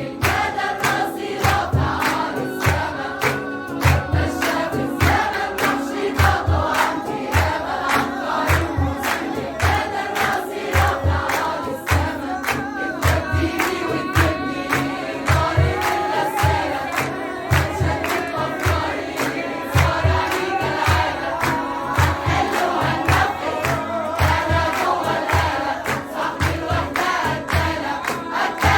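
A choir singing an Arabic pop song to a steady percussion beat of low drum hits and sharp claps or snare strokes.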